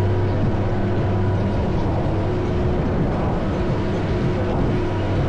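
Chairlift machinery humming steadily: a low hum with several steady tones above it.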